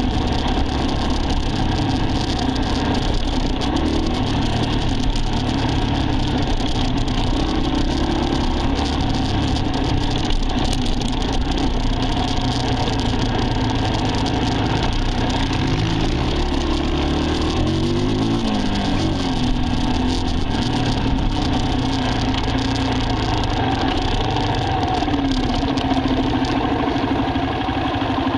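Dirt bike engine running under way, its pitch rising and falling with throttle changes, with a marked drop and climb a little past the middle.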